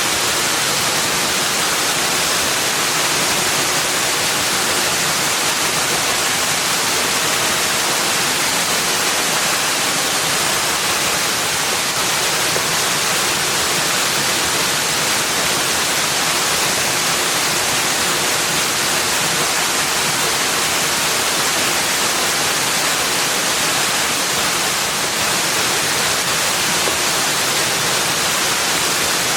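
Steady, even rushing hiss of a forest nature-sound ambience, strongest in the high range, with no distinct calls, drips or other events standing out.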